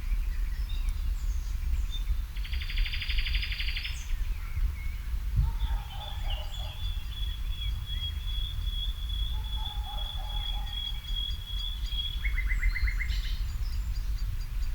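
Garden songbirds singing in the evening: a rapid trill, then a long, high, steady note held for several seconds, then a shorter trill near the end, with softer lower chirps between. A steady low rumble runs underneath.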